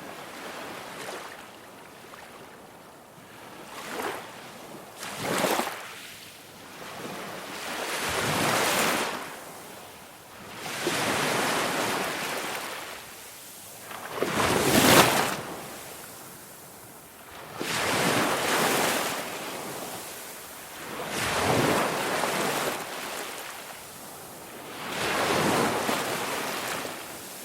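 Ocean surf: waves breaking and washing in, the noise swelling and falling away about every three to four seconds, with the loudest surge about halfway through.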